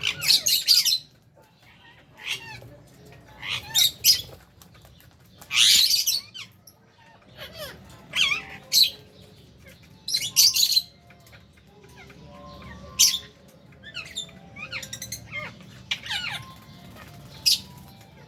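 Lovebirds in an aviary, chirping and squawking in shrill bursts every second or two, with quieter chatter in between.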